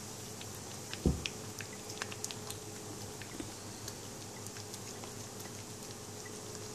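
A cat eating pumpkin puree: small wet licking and chewing clicks, scattered and irregular, with one louder knock about a second in, over a faint steady hum.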